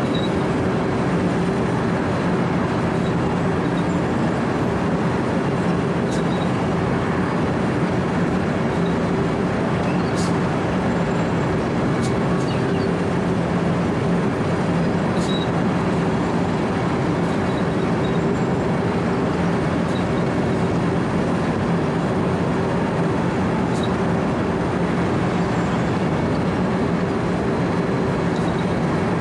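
Wirtgen W 120 CFi cold milling machine running steadily under load: a constant diesel drone with a low steady hum, over the grinding of its cutting drum chewing up asphalt. A few sharp ticks stand out now and then.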